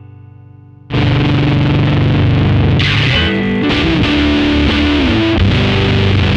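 Electric guitar played through a BOSS FZ-1W fuzz pedal. A held chord fades out, then about a second in a loud fuzz-distorted riff starts, with a note sliding down in pitch later on.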